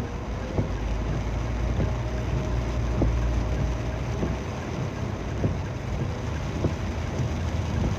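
A vehicle travelling through heavy rain: a steady low engine and road rumble under a dense rush of wind and rain noise on the microphone, with a few sharp taps.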